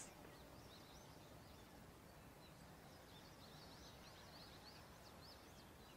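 Near silence with faint, high bird chirps, a quick run of them in the middle.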